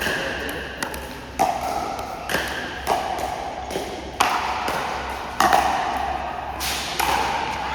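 Pickleball rally: paddles striking the plastic ball in a run of sharp pocks, one roughly every second, each with a short ringing echo.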